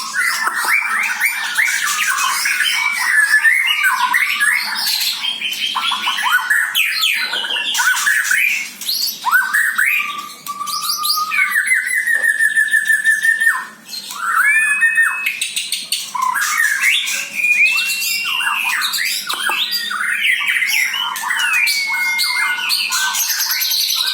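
White-rumped shama singing a long, varied song of clear whistled glides, chattering phrases and a fast trill partway through, with only brief pauses. The voice sounds full rather than hoarse, in a bird said to have recovered from hoarseness after treatment.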